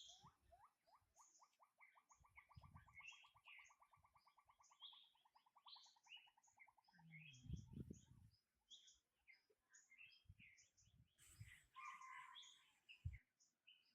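Faint birdsong: one bird gives a fast trill of short repeated notes, about ten a second, for the first six seconds, while other birds chirp higher throughout. A few low thumps sound, the loudest about eight seconds in.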